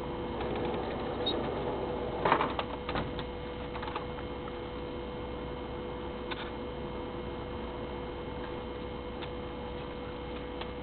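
A steady hum with a few scattered light clicks and taps, a small cluster of them about two seconds in.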